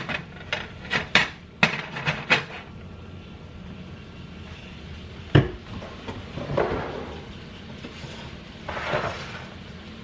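A cooking utensil clattering and knocking against a frying pan during a stir-fry: a quick run of sharp clicks in the first couple of seconds, one hard knock about five seconds in, then softer stirring and scraping.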